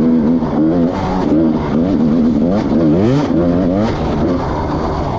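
Motorcycle engine revving, its pitch rising and falling over and over with throttle and gear changes.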